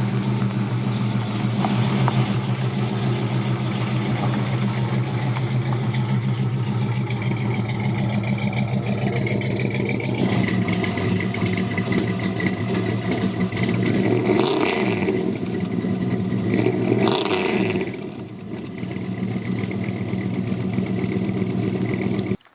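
350 stroker V8 in a 1963 GMC pickup running through a custom side-exit exhaust with Walker mufflers, idling steadily and then revved twice in the second half. The sound stops abruptly near the end.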